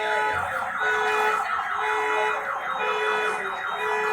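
Car alarm sounding: rapidly repeating falling chirps over a steady tone that switches on and off about once a second.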